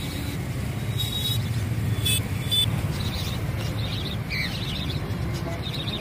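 Small caged birds chirping in short, high calls, mostly in the second half, over a steady low rumble. A few short, sharp scratchy clicks come in the first half.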